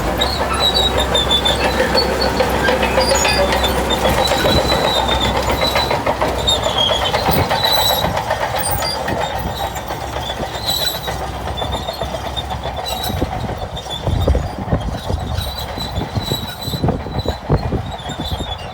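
Shantui crawler bulldozer at work: its diesel engine drones low while the steel tracks squeal in short high notes and clank. The engine drone fades after about the halfway mark, leaving louder clanks and knocks near the end.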